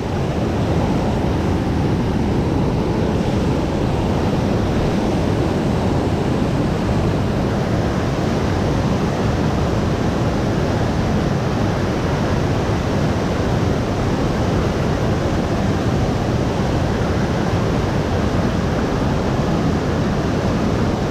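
Steady, loud rushing noise with no breaks or rhythm.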